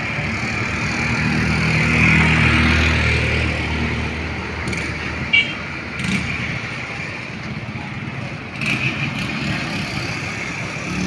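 Road traffic: a motor vehicle's engine hum swells and fades as it passes about a second or two in, over steady tyre and road noise, with a short horn beep about five seconds in.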